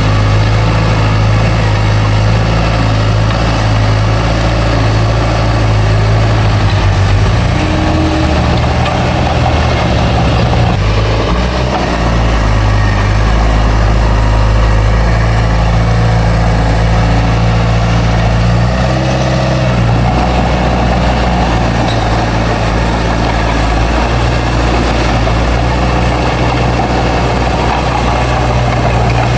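Large diesel engine of a bulldozer running steadily, its engine speed dropping and rising a few times.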